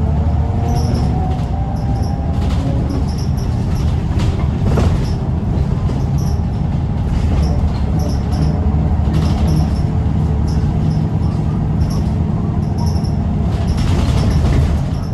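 Scania L94UB bus engine running hard under load, steady and loud, with repeated short rattles and knocks from the bodywork.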